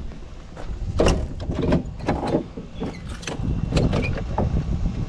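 Irregular knocks and clatter over a low rumble.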